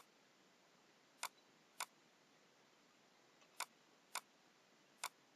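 Computer mouse clicking six times, short sharp clicks loosely in pairs, with near silence between.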